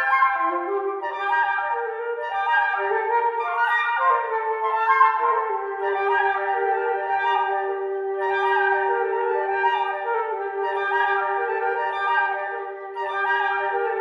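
Several flutes playing together in close chords, phrase after phrase, one lower part holding a long note through the middle.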